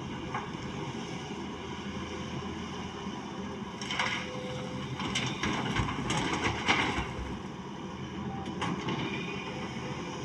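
Caterpillar excavator running with a steady low engine rumble, broken by a few bursts of rattling and clatter between about four and seven seconds in and two short clicks later on.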